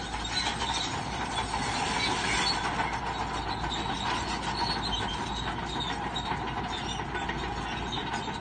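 Crawler bulldozer at work: diesel engine running under a steady clatter of its steel tracks.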